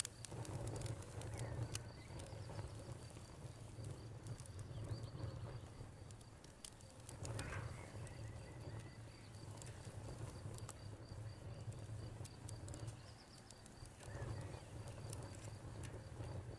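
Campfire crackling with scattered sharp pops, over crickets chirping in a steady, even high pulse.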